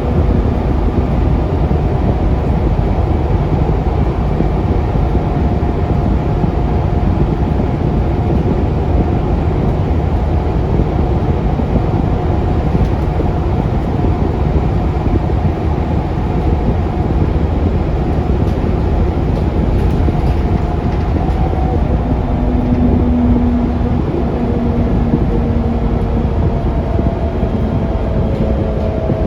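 Scania K360UA articulated bus riding along, heard from inside the cabin: a steady low rumble from its Scania DC9 engine and driveline, with a faint whine that rises into hearing a little over two-thirds of the way through.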